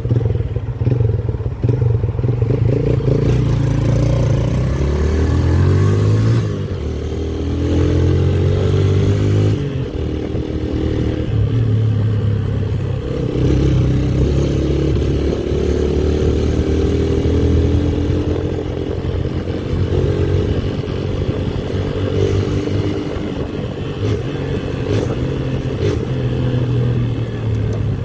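Motorcycle engine running under way, its pitch rising and falling repeatedly with the throttle.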